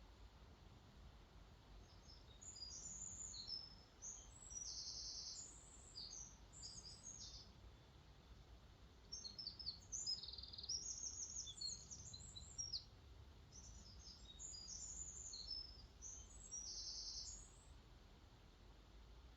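A songbird singing two long phrases of varied high chirps, whistles and buzzy trills, over a faint, steady low rush of flowing water.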